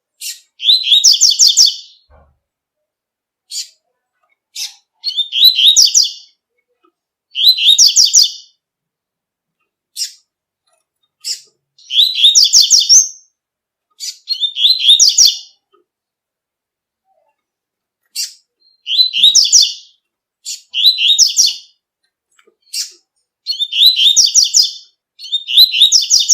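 Double-collared seedeater (coleiro) singing its 'tui-tui' song type: short, quick, high-pitched warbled phrases repeated every two to three seconds, with single sharp chip notes between some of them.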